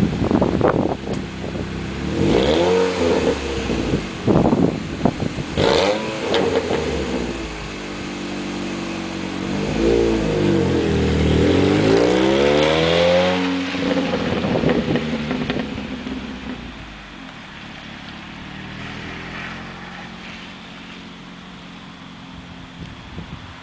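Saturn Ion Redline's supercharged 2.0-litre four-cylinder through a Pacesetter aftermarket exhaust, just after a cold start: several quick rev blips, then one longer rev that climbs and falls, before it settles back to a steady idle. A little raspy at higher revs.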